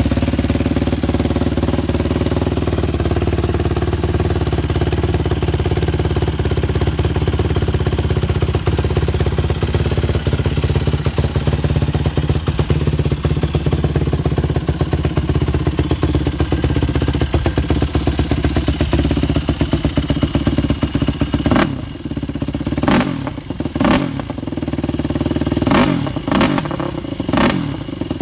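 2008 Yamaha YFZ450's single-cylinder four-stroke engine with a GYTR full exhaust, running at a steady idle just after a cold start. In the last several seconds the steady run is broken by a handful of short, sharp bursts. It sputters, which the owner puts down to the carburettor being tuned for low altitude.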